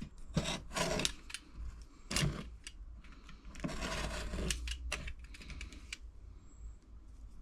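Light clicks and knocks from handling fibreglass repair materials and tools, with a rustle about four seconds in.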